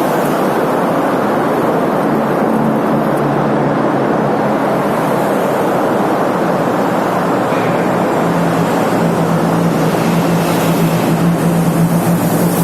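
Steady roar of road traffic in a vehicle tunnel, with wind rushing over the microphone of a moving bike. A steady low engine hum grows stronger in the last few seconds as a vehicle comes up close.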